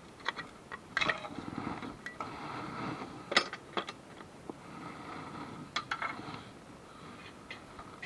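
Scattered sharp metallic clicks and clanks with a stretch of scraping, the sound of hand tools working on metal; the loudest clank comes about halfway through.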